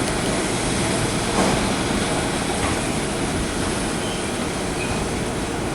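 Vintage New York City subway train running on the tracks: steady wheel and track noise with no clear rhythm.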